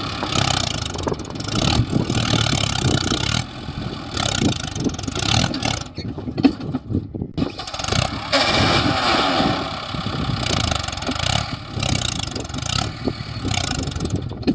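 Heavy diesel machinery running hard, the engine note surging and easing off again and again, as when a stuck tractor and a JCB labour to pull a loaded trolley free.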